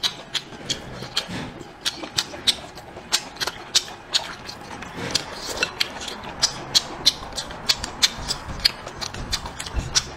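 Close-miked chewing and eating: wet smacking and sharp mouth clicks, several a second, as a person chews food.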